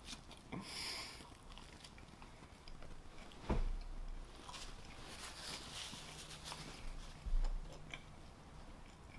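A person chewing a mouthful of food with the mouth closed, with small mouth clicks, and two soft low thumps, about three and a half and seven seconds in.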